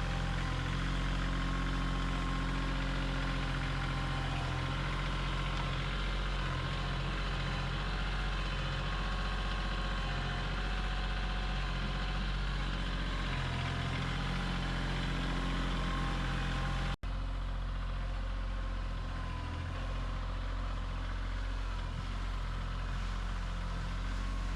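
Tractor engine running steadily, broken once by a momentary dropout about two-thirds of the way through.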